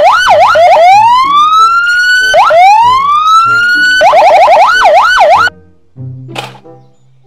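Electronic police siren. It runs a fast up-and-down yelp, switches to two slow rising wails, then goes back to the quick yelp before cutting off suddenly about five and a half seconds in.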